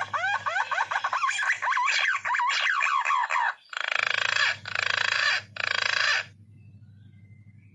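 Green pigeon (punai) calling: a rapid run of whistled notes gliding up and down for about three and a half seconds, then three harsh, noisy notes of about half a second each. A faint low hum runs underneath, strongest after the calls stop.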